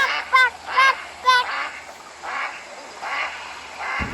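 Domestic waterfowl calling: four quick, clear honks in the first second and a half, followed by several rougher, raspier calls.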